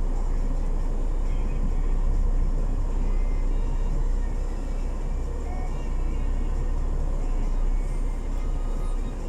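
Steady low rumble of a semi-truck's diesel engine idling.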